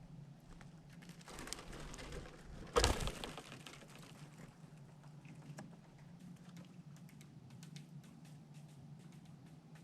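A squirrel at a feeder makes quick small clicks and taps. About a second in there is a rustling scuffle that ends in a sharp knock near three seconds. A low steady hum runs underneath.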